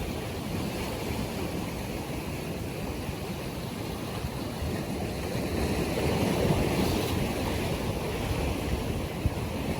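Sea waves washing, with wind buffeting the microphone; a wave swells louder about six seconds in.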